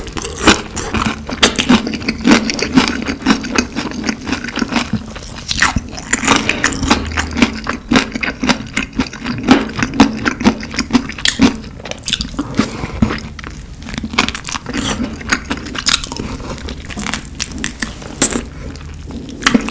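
Close-miked ASMR eating sounds: dense, crackly crunching and chewing, many sharp bites in quick succession.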